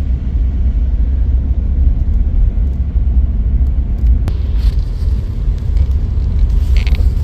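Steady low road and engine rumble heard from inside a moving car, with a single light click about four seconds in.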